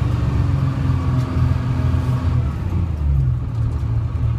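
Detroit Diesel 6V71 two-stroke V6 diesel of a 1970-71 GMC New Look bus running under way. A steady whine fades out about halfway through, and the engine note changes about three seconds in.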